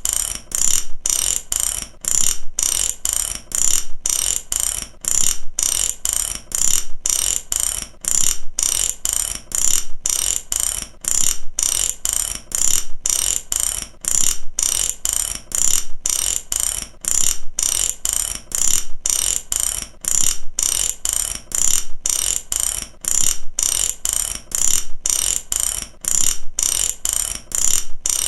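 Ratchet wrench clicking steadily in quick repeated bursts, a sharp metallic pawl clicking with short pauses between strokes, about one and a half to two bursts a second.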